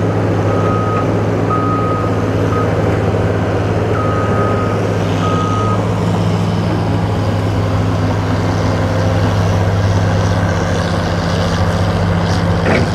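Heavy diesel earth-moving equipment running steadily, with a reversing alarm beeping repeatedly through the first half. A brief sharp knock comes near the end.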